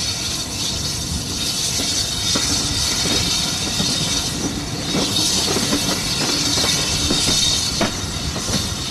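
Passenger train carriage running along the track: a steady rumble of wheels on rail, with a few sharp clicks as the wheels pass over rail joints.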